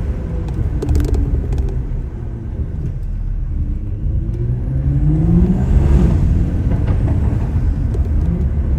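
Tuned BMW engine with a steady low rumble, revving up under acceleration, its pitch rising from about three seconds in to a loudest point near six seconds.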